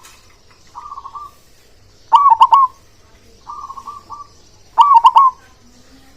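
Zebra dove (perkutut) cooing: two loud phrases of three to four quick, arched notes, about two and a half seconds apart, with softer, fainter coos before and between them.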